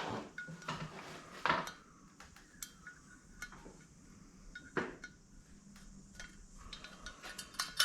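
Small metal parts of a Stromberg carburettor clinking and tapping as they are handled on a bench, with sharper knocks about one and a half and five seconds in. The parts are being worked to free a small valve stuck in debris.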